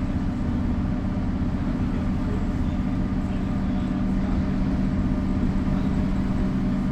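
Mercedes-Benz O405 city bus engine running at a steady pitch while the bus drives, heard from inside the passenger cabin as a constant low drone with a steady hum.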